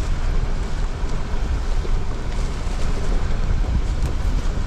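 Jeep Gladiator Rubicon driving: a steady low rumble of tyres and drivetrain.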